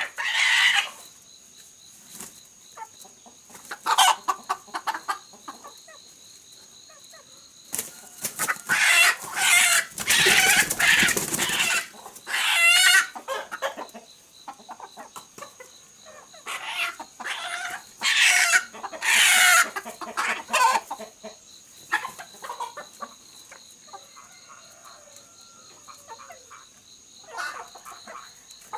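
Chickens clucking and squawking in irregular bursts, loudest in two clusters a third and two thirds of the way through. A faint steady high-pitched tone runs underneath.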